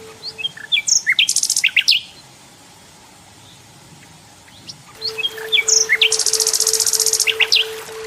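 Nightingale singing two phrases about three seconds apart. Each is a run of sharp, quick whistled notes ending in a fast, high, buzzy trill.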